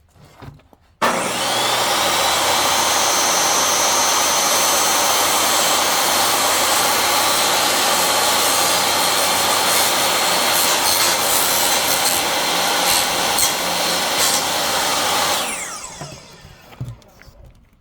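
Electric power saw switched on and running steadily for about fourteen seconds while cutting wood, then switched off and winding down with a falling whine.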